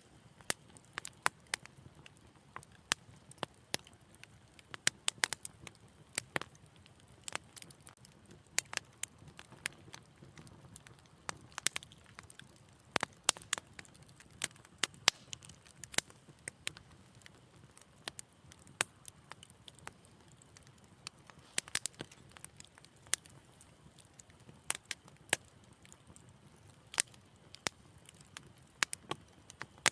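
Wood fire crackling in a fireplace: irregular sharp pops and snaps, several a second, over a soft low burning rumble.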